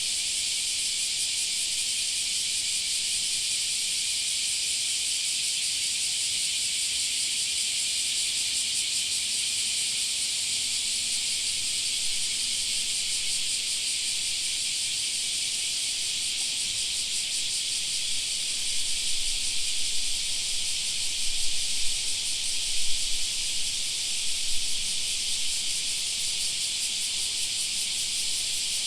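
A chorus of cicadas shrilling in a steady, dense high-pitched hiss, with louder pulsing swells in the last third.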